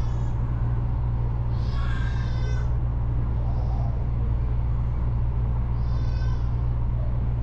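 Steady low rumble of a regional passenger train running, heard from inside the carriage. Two short high-pitched squeals cut in, about two seconds in and again about six seconds in.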